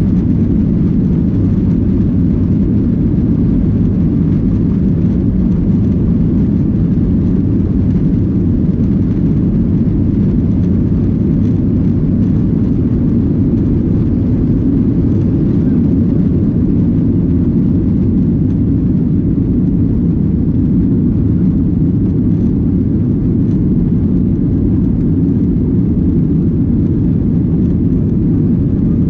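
Steady low engine and airflow noise heard inside the cabin of a Boeing 737-900ER, its CFM56-7B turbofans running at high power around takeoff and climb-out.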